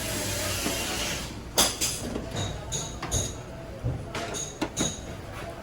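A steady hiss for the first second or so, then a series of about eight sharp metallic clinks and knocks, some with a short ring: tools and metal parts being handled during work on a car's gearbox.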